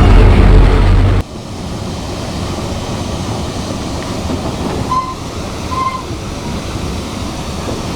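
Passenger train running on the rails with a steady rumble. About a second in, a much louder low rumble cuts off abruptly, leaving the quieter running noise. Two short high squeaks come near the middle.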